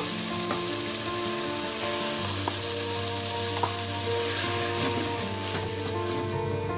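Tomatoes, peas and fenugreek leaves frying in oil in an aluminium pot with a steady sizzle as ground masala paste is added and stirred in with a wooden spatula.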